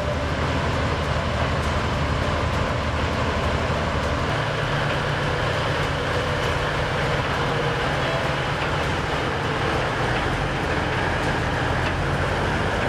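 Diesel engines of a heavy-haulage self-propelled transporter running steadily under load as it moves a 400-ton transformer, a low drone whose engine note steps up slightly about four seconds in.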